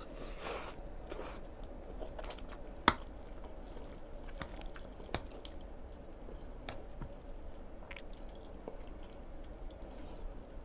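Close-up chewing and slurping of saucy black-bean instant noodles, with a short slurp right at the start. A metal fork clicks sharply against the plate a few times; the loudest click comes about three seconds in.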